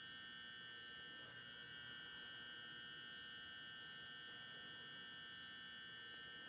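Faint, steady high-pitched electrical whine made of several fixed tones, with a low hiss beneath.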